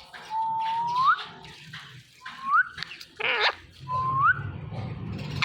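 Male ringneck parrot giving three whistled calls, each a held note that slides upward at the end, with a short harsh squawk about three seconds in.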